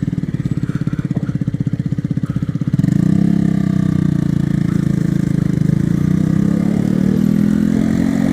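Motorcycle engine running, pulsing rapidly at low revs at first, then louder and smoother from about three seconds in.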